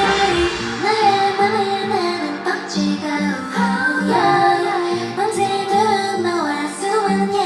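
K-pop dance-pop song with female group vocals singing over a rhythmic backing track. The deep bass drops out about a second in.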